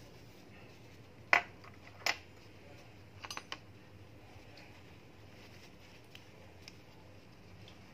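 A few sharp clicks or taps over faint steady background noise: a loud one a little over a second in, another soon after, and a quick rattle of three or four near the middle.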